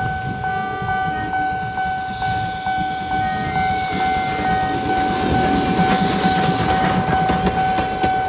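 Train sound: a steady high tone held over low rumbling and irregular clattering clicks.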